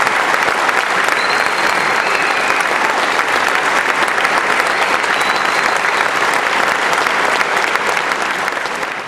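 Crowd applauding steadily, fading away near the end.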